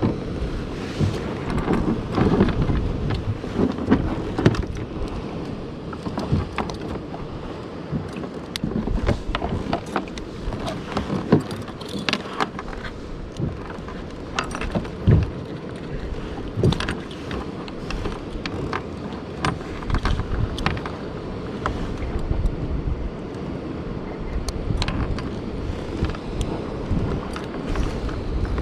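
Wind buffeting the microphone and water lapping around a fishing kayak, with many small knocks and clicks scattered throughout.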